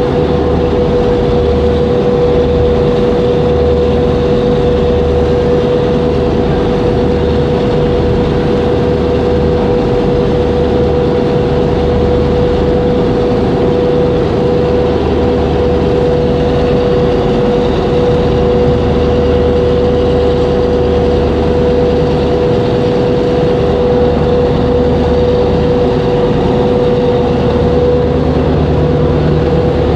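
Boat engine running steadily: a heavy low rumble under a constant mid-pitched whine, unchanging throughout.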